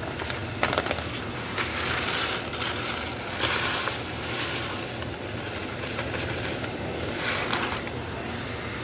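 Irregular crackling and scraping handling noises with a few sharp clicks, over a steady low hum.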